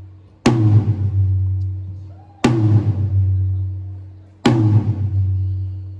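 A low drum of a drum kit struck once every two seconds during a sound check, three hits in all, each ringing on with a steady low tone that slowly dies away.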